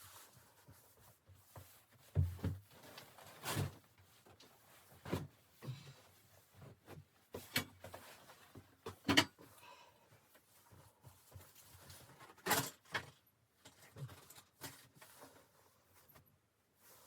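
Irregular knocks and clunks of objects being handled in a small room, with light rustling between them; the sharpest knocks come about nine and twelve and a half seconds in.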